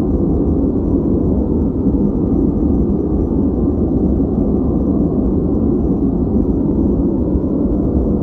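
Steady, unbroken noise played as white noise for focus. Its energy sits low, so it sounds deep and muffled, a rumble without hiss, with no change or events.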